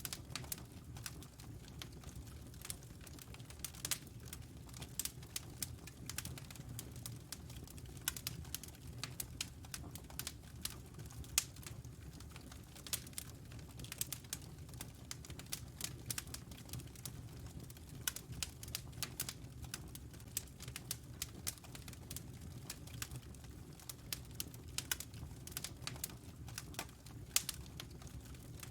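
Wood fire crackling in a fireplace: irregular sharp pops and snaps of burning logs, several a second, over a steady low rumble of the flames.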